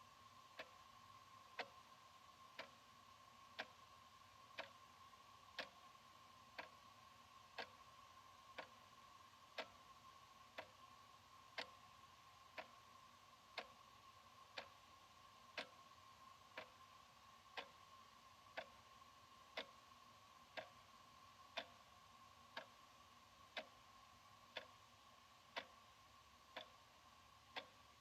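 Analog wall clock ticking steadily, about one tick a second.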